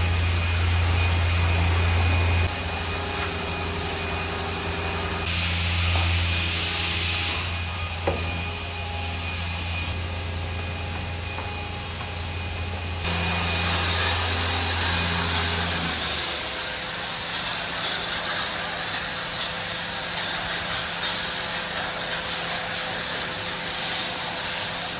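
Pressure washer running: a steady motor hum under the hiss of the water spray, stopping and starting abruptly several times, with only the spray hiss in the last third.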